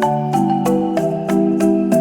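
Background music led by a marimba-like mallet instrument, playing a steady run of notes about three a second over sustained chords and a bass line.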